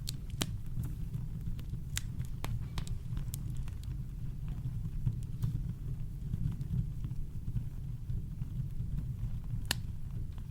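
Campfire burning: scattered sharp crackles and pops of burning wood over a steady low rumble, with the loudest pop near the end.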